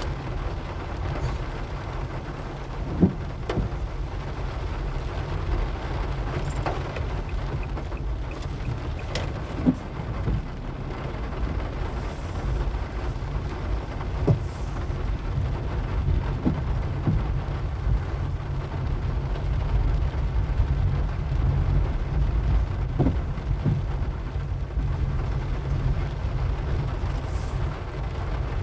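A car driving in rain: a steady low rumble of engine and tyres under an even hiss of rain, with a few sharp knocks.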